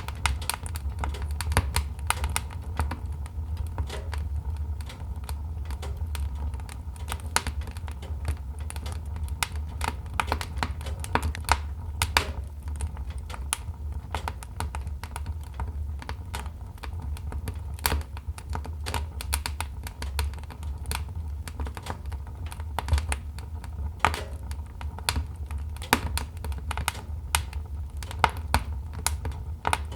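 Wood fire crackling in a fireplace: many irregular sharp pops and snaps, some louder than others, over a steady low rumble.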